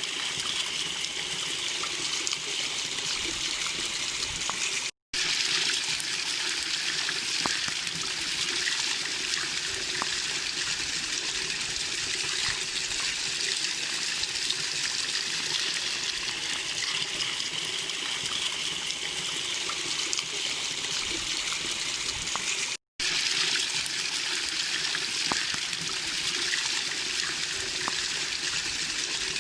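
Small waterfall rushing steadily, an even hiss of falling water. The sound cuts out for an instant twice.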